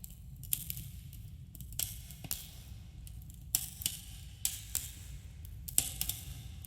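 Campfire burning, with a dozen or so irregular sharp crackles and pops over a steady low rumble, carrying a slight echo as in a cave.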